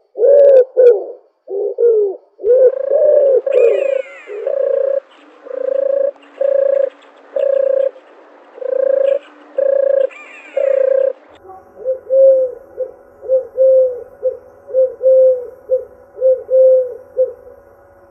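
Doves cooing: a long run of repeated short, low coos. About 11 seconds in, a different recording takes over, with a faint steady hum beneath a quicker series of shorter coos.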